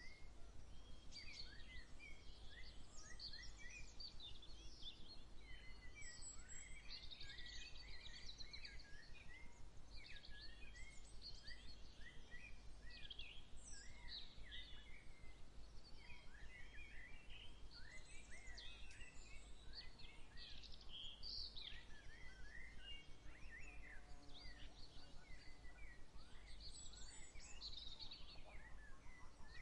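A chorus of many small songbirds chirping and trilling at once, with short falling calls layered over one another, over a steady low rumble.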